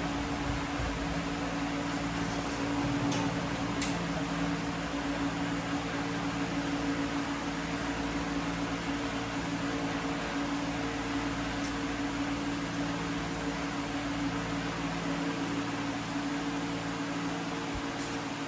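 Steady mechanical hum with a constant low drone, broken by a few faint clicks.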